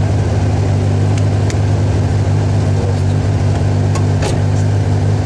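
Rally car engine heard from inside the cabin, running at steady, unchanging revs while the car stands at the stage start. There are a few faint clicks.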